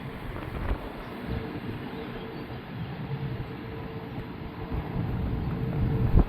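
Airbus A340-600's four Rolls-Royce Trent 500 jet engines running as a steady low rumble with a faint droning tone, mixed with wind buffeting the microphone. The rumble builds over the last couple of seconds and ends in a sharp thump.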